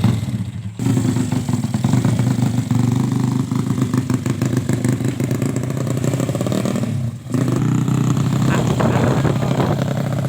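Yamaha Jupiter motorcycle's single-cylinder four-stroke engine running steadily, with two short dips in level, one just under a second in and one about seven seconds in. The engine is being tuned and is called busted ('jeboll').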